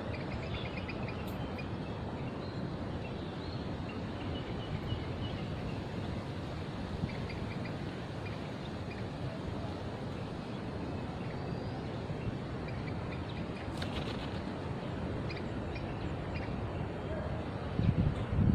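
Steady outdoor background noise with faint, short bird chirps a few times. Near the end come several louder low thumps and rumbles.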